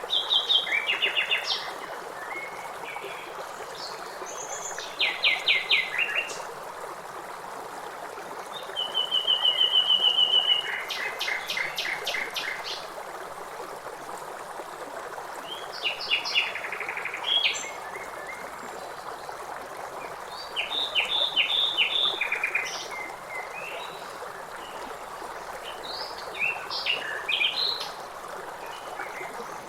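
Songbirds singing short phrases and trills every few seconds over the steady rush of river water.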